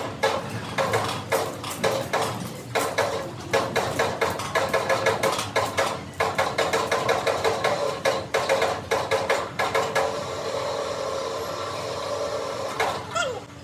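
Rapid hammer blows on metal, several a second, with ringing after the strikes, over a steady machine hum in a metalworking shop. The hammering stops about ten seconds in, leaving a steadier mechanical sound.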